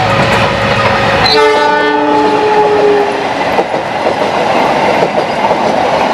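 Passenger coaches rolling past on a curved track: a steady rolling rumble and rail clatter, with the wheels squealing in steady high tones for a couple of seconds near the start. The deep part of the rumble drops away at about the same moment.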